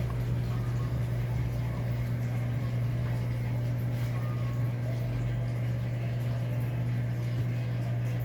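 Electrolux LAC13 13 kg washing machine running with a steady low hum.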